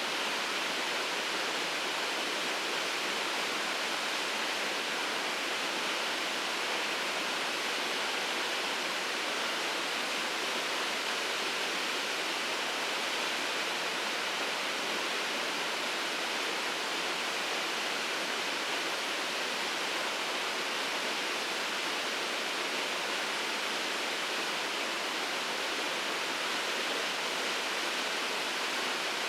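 Waterfall pouring steadily, a constant rushing of falling water with no change.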